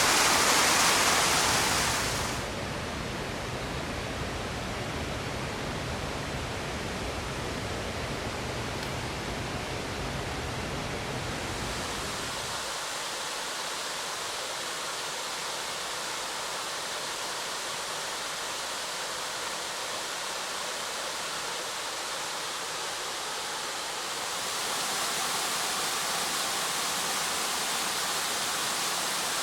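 Waterfalls rushing: a steady roar of falling water that changes abruptly about 2 s, 12 s and 24 s in, as different falls follow one another. The first is the loudest and brightest; the middle stretch loses its deep rumble.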